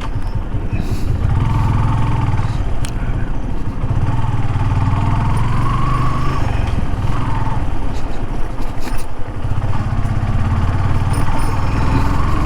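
Motorcycle engine running while riding, a steady low rumble with a whine that rises and falls a few times, over road and wind noise.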